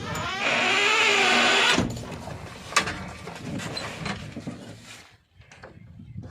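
Diesel earthmoving machinery working: a loud burst of engine with a whine that rises and falls for about a second and a half near the start, then quieter running with a sharp knock.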